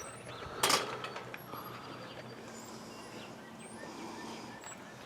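Outdoor ambience with small birds chirping faintly, high and brief. About half a second in comes one short, loud, noisy burst, and there is a click at the very end.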